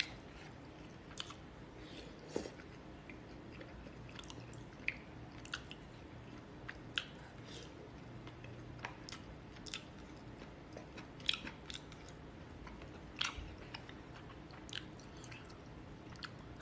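A person eating with chopsticks from a plastic tub: quiet chewing and biting, with scattered short clicks and smacks at irregular intervals.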